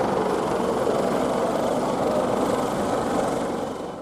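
Racing motorcycle engines running as a steady blur of noise, fading out near the end.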